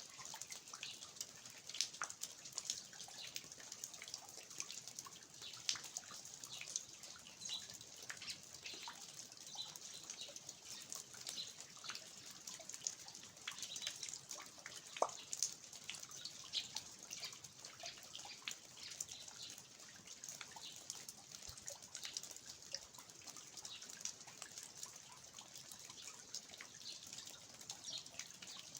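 Steady rain falling on a garden, with water dripping from the roof eaves: a soft continuous hiss with many irregular, scattered drop splashes.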